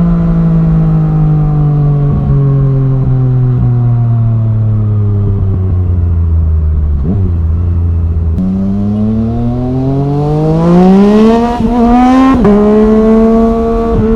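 Yamaha MT-09 three-cylinder engine through an Arrow Thunder full-system exhaust, heard on the move. The engine note falls slowly for about eight seconds as the revs drop off, then climbs steeply under acceleration with two brief dips in pitch, and settles to a steady note near the end.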